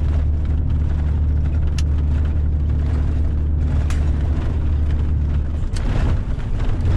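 Vehicle engine droning steadily, heard from inside the cabin while driving over a bumpy, rutted road, with a few sharp knocks from the bumps. Near the end the drone breaks up for about a second and comes back at a slightly different pitch.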